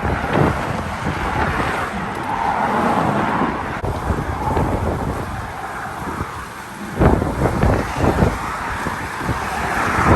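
Wind buffeting the microphone in gusts, over the steady rush of road traffic passing by.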